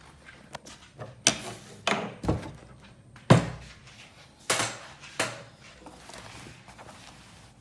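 A series of about six sharp knocks and thuds at uneven intervals, each with a short ring after it, the loudest about three seconds in: hard objects being set down or struck during workshop handling.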